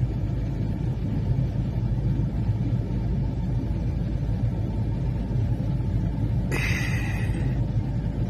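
Steady low drone of a car's engine and road noise heard from inside the cabin while driving. About six and a half seconds in, a brief higher-pitched squeak with several tones lasts about a second.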